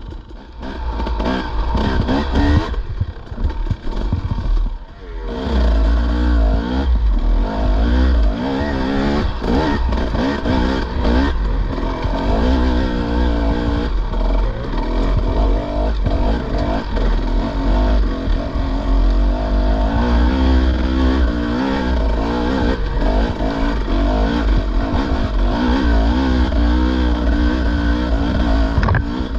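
Dirt bike engine being ridden on a trail, revving up and down as the throttle opens and closes, easing off briefly about four seconds in before pulling again.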